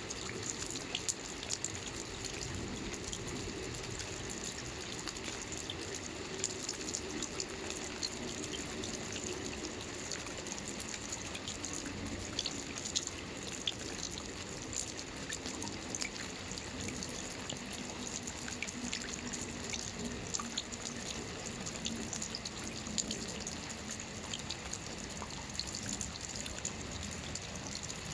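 Soft rain falling on a roof: a steady hiss of rain with many small, scattered drop ticks.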